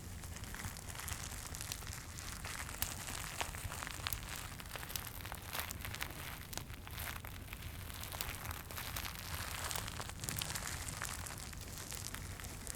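Close-up crinkling and crackling of a crinkly Santa item, a dense run of small irregular crackles, over a steady low rumble of fireplace ambience.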